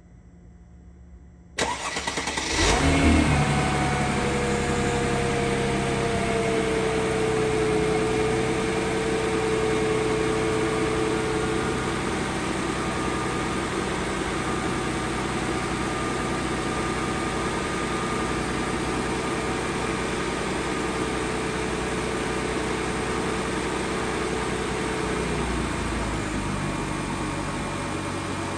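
2002 Mercedes-Benz CLK320's 3.2-litre V6 cold-started: a brief crank, then it catches and runs at a raised cold idle. A higher steady tone above the engine note stops about 25 seconds in, and the idle settles a little lower.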